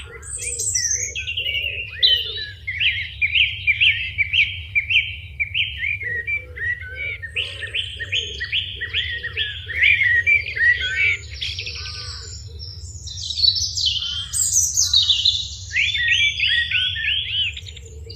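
A songbird chirping in phrases of quick, repeated notes that sweep downward, about two or three a second, over a steady low hum.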